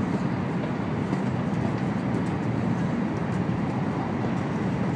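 Steady low rumble and rush of an N700-series Shinkansen train running, heard from inside the passenger cabin.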